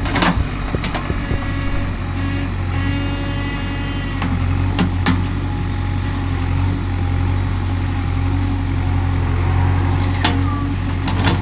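Heavy diesel engine running steadily, with a brief whine and a few sharp knocks.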